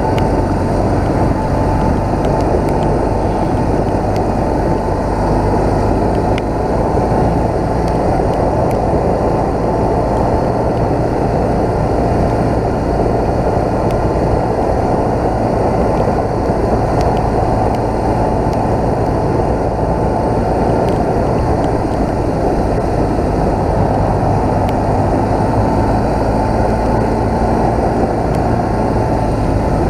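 BMW motorcycle being ridden at an even pace: a steady engine drone mixed with a heavy rush of wind noise, with no change in speed or revs.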